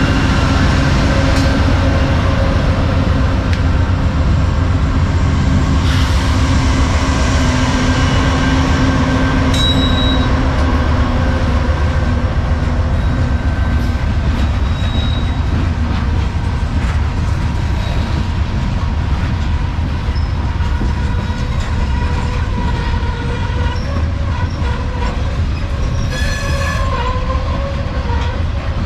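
Norfolk Southern unit train of covered hopper cars rolling past, a steady loud rumble of steel wheels on the rails. Brief high wheel squeals cut through it, the clearest near the end.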